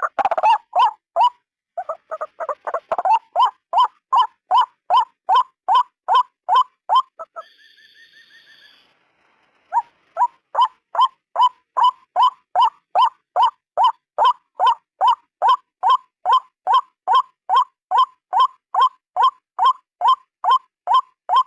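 White-breasted waterhen (ruak-ruak) calling over and over, short loud notes at about two to three a second. The run breaks off for about two seconds midway, with only a fainter, higher-pitched note, then the calling resumes.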